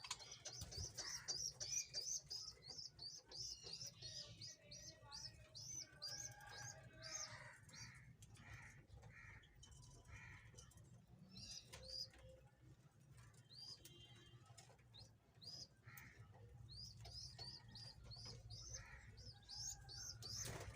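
Pet budgerigars chirping and chattering faintly: runs of quick, high, repeated chirps broken by pauses, over softer warbling.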